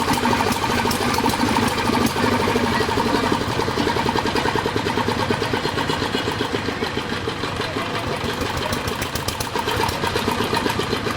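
A machine running steadily with a fast, even pulsing beat.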